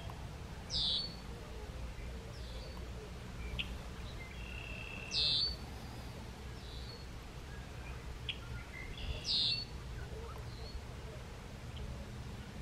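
Red-winged blackbird singing its song three times, about four seconds apart, each a short held note ending in a loud falling trill, with fainter bird chirps between the songs over a low steady rumble.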